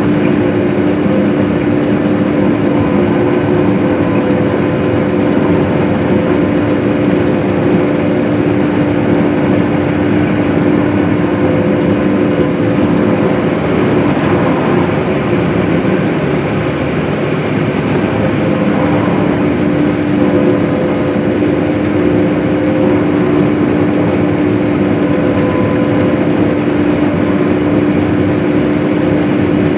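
Case IH swather running steadily while cutting hay: a constant engine drone with a strong, even hum.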